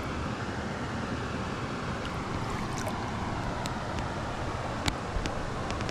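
Creek water running steadily, with a few light clicks near the end.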